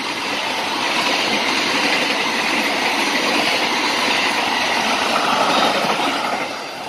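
Sembrani Tambahan passenger express passing close at speed: a steady loud rush of wheels on rails and carriages going by, easing off near the end as the last carriages pass.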